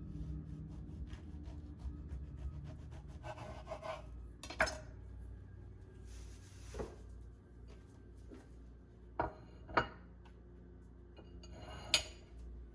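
Kitchenware being handled: dishes and utensils clinking and knocking, with light rubbing and about five sharper clinks spread through.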